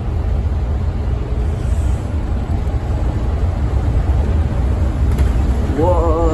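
Steady low rumble of a Scania N230UD OMNICity double-decker bus's engine and road noise, heard from inside the bus as it travels at speed. Near the end a rising, wavering tone comes in.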